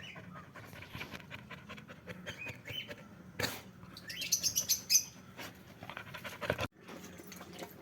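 Birds chirping, with a quick run of high chirps about four to five seconds in, over soft clicks and rustling.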